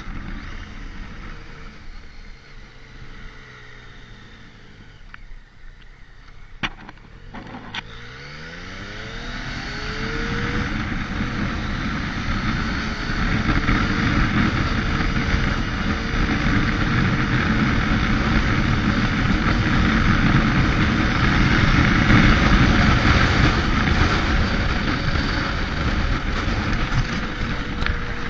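Motorcycle engine running quietly at low speed. After two sharp clicks about seven seconds in, it accelerates, its pitch rising, then settles into a loud steady cruise with rushing wind noise building on the microphone.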